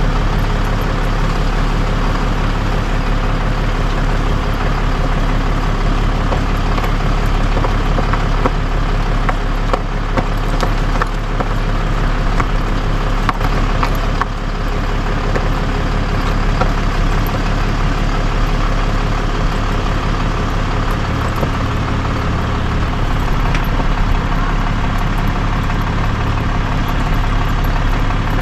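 Heavy truck engine idling steadily, a constant low hum that holds the same pitch throughout.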